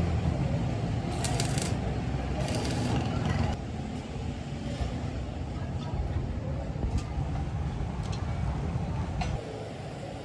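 A steady low motor rumble that drops in level about three and a half seconds in and again near the end, with short metallic rattles and clinks over it.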